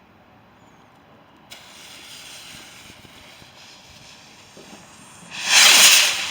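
Firework hissing, starting suddenly about a second and a half in, then a loud rushing burst near the end, the loudest moment.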